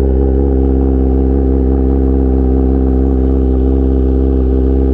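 2022 Kawasaki ZX-10R's inline-four engine idling steadily after a cold start, loud through its SC-Project S1 aftermarket exhaust.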